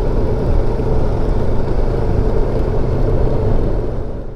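Benelli TRK 702 motorcycle riding at steady road speed: a loud, even rush of wind and engine noise. It drops away sharply near the end.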